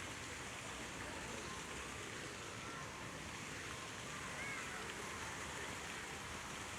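Steady rush of falling water from the park's artificial cascade, an even hiss with no breaks.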